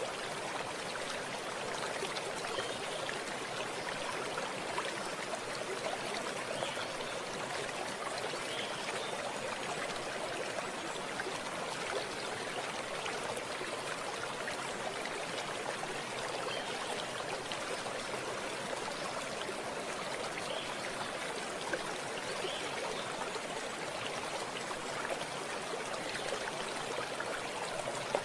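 Running water from a stream, a steady, even rush with small trickling splashes.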